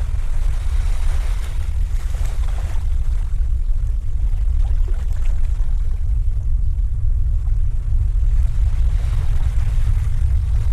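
Wind buffeting the microphone: a loud, steady low rumble. Two softer washes of hiss rise over it, about a second in and again near the end.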